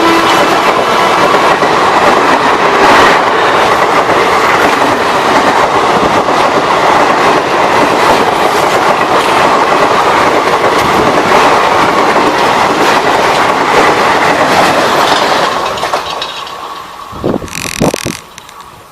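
Express train hauled by an electric locomotive passing close at speed: a loud, steady rush of wheels and coaches with clickety-clack over the rail joints. It fades away about sixteen seconds in as the last coaches go by, with a few short knocks near the end.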